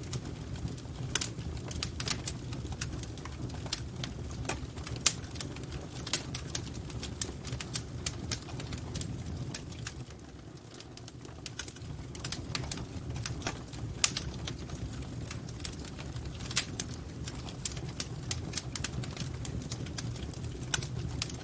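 Wood fire crackling, with irregular snaps and pops over a steady low rumble. Two louder pops come about 5 and 14 seconds in.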